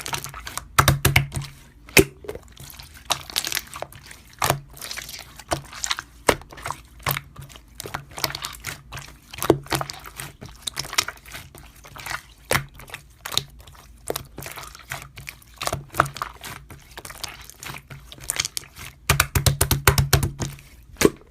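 Slime being squished and pressed by hand: irregular sticky clicks and pops, bunched densely near the end.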